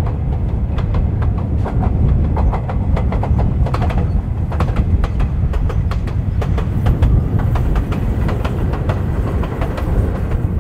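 Electric train running along the track: a steady low rumble with irregular clicks and clatter of the wheels over the rails.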